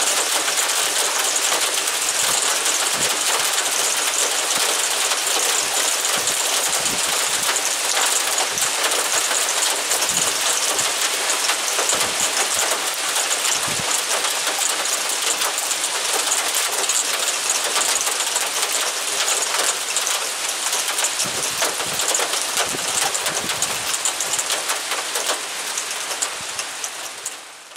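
Heavy downpour: rain pouring steadily, with a dense patter of drops hitting surfaces. It fades out at the very end.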